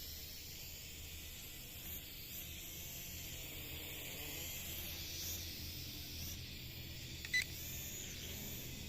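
Small toy quadcopter drone in flight, a steady faint hum with hiss over it, and one short high beep about seven seconds in.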